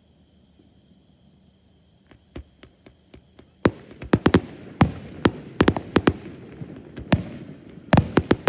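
Fireworks bursting: a few scattered pops about two seconds in, then from about halfway a rapid, irregular string of sharp bangs, several a second, with a short lull before another flurry near the end.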